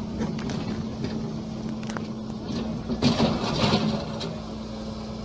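A heavy machine's engine running with a steady hum, with scattered clicks and a louder, busier stretch about three seconds in.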